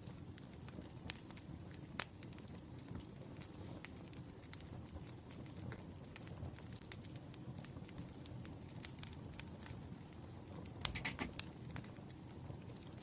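Burning firewood crackling: scattered sharp pops and snaps over a low steady rumble of flames, with a quick flurry of pops near the end.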